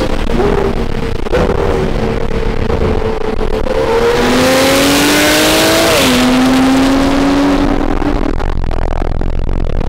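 Sports car engine under hard acceleration in a highway roll race, heard from inside the car's cabin with a window open. It cruises steadily, then about four seconds in revs up with a loud rushing hiss, drops in pitch at an upshift, revs up again and fades near the end.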